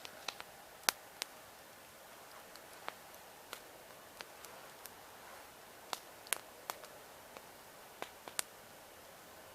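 Campfire logs burning, with sharp pops and crackles at irregular intervals over a faint steady hiss of the flames.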